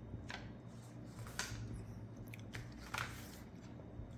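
A sheet of letter-size paper being folded and creased by hand: a few short, crisp crackles of the paper.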